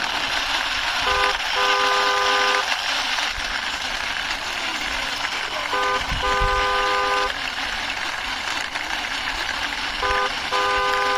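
A car horn sound sounds a short toot and then a longer one, three times over, on two pitches. A steady hiss runs underneath.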